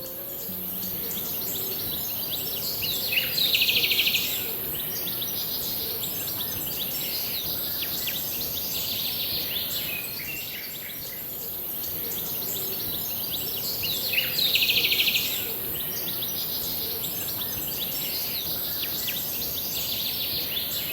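Outdoor birdsong: many small birds chirping over a steady high hiss, with a louder rapid trill about three seconds in and again about fourteen seconds in.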